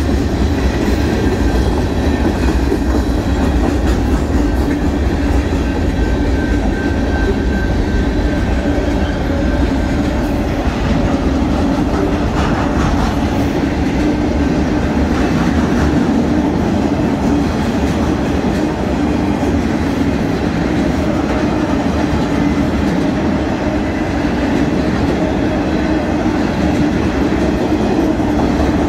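Freight train passing close by: a string of tank cars and then empty flatcars rolling over the rails with a steady rumble and clatter of steel wheels.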